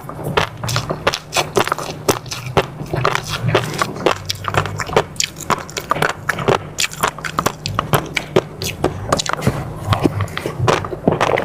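Close-miked eating sounds: a rapid, irregular run of wet mouth clicks, smacks and chewing.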